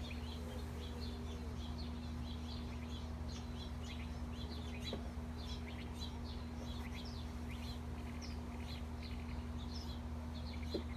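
Small birds chirping over and over, quick short calls throughout, over the steady buzz of honeybees around the open hive.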